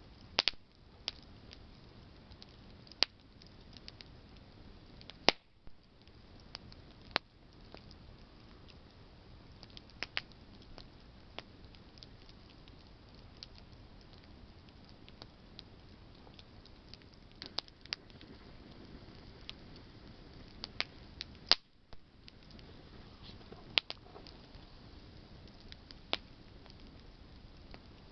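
Campfire of branches burning with a low steady hiss, crackling with irregular sharp pops and snaps of burning wood, a few of them much louder than the rest.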